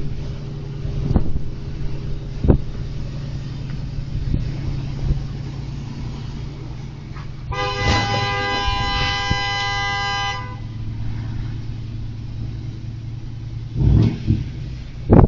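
A car horn held in one long honk of about three seconds, over a steady low rumble of vehicle noise. A sharp thump comes about two and a half seconds in.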